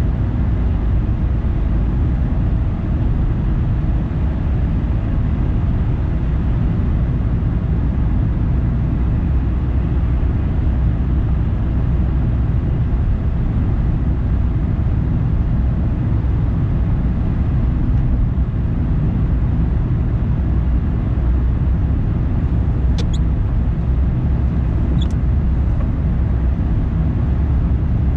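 A car driving along: a steady low rumble of engine and tyre noise on the road. Two brief high chirps come near the end.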